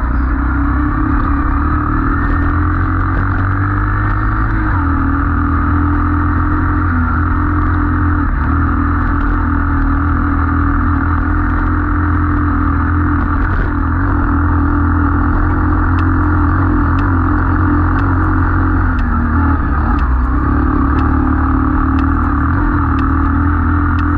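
Pit bike's small single-cylinder engine running at a fairly steady throttle, its pitch dipping slightly a few times as the rider eases off. Faint regular ticks sound in the second half.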